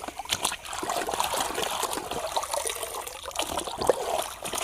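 Water trickling and spattering over a muddy toy car as it is washed.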